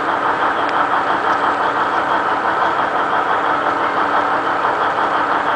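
Alishan Forest Railway DL50 diesel locomotive's engine running steadily at idle, with an even hum.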